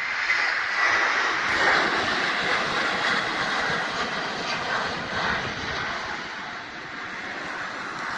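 Airliner's engines as the plane passes close by: a loud, steady rushing roar, strongest in the first couple of seconds and easing off towards the end.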